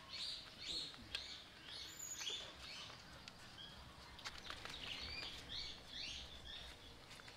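Small birds chirping, many short high chirps in quick succession, with a few faint clicks among them.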